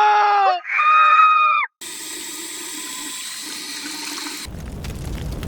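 Two short, high, slightly falling voice-like cries in the first second and a half, then water running steadily. The water sound grows fuller about four and a half seconds in.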